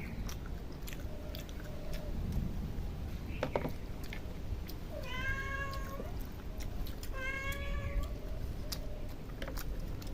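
A cat meowing: two long, drawn-out meows about five and seven seconds in, with fainter short mews before and after, over small clicks of chewing and eating by hand.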